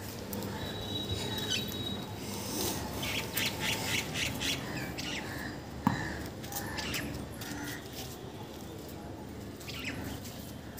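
Birds squawking and chirping, with a quick run of calls a few seconds in, and a single sharp knock about six seconds in.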